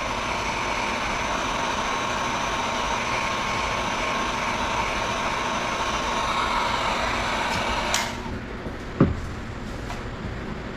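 Handheld hot-air blower running with a steady rush and a faint whine, warming the adhesive tape behind a motorcycle tank badge. It is switched off about eight seconds in, and a single knock follows a second later.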